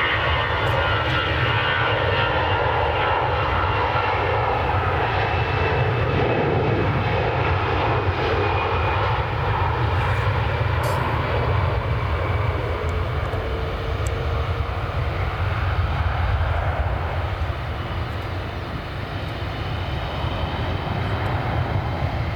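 Airbus A320 jet engines running at high power, most likely on its takeoff run. A steady, loud jet noise with a deep rumble beneath, and a high whine that fades over the first few seconds.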